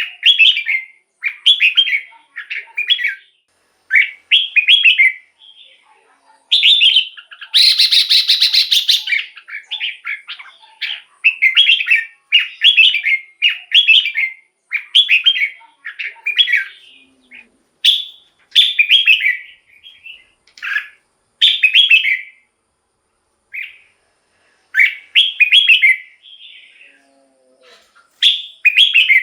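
Red-whiskered bulbul singing short, quick whistled phrases one after another, with brief pauses between them. About eight seconds in there is a harsh, buzzy call lasting about two seconds.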